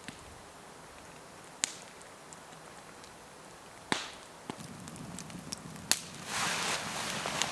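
A few sharp snaps, spaced a second or more apart, over a low steady hiss. Near the end, a louder stretch of rustling and handling noise begins.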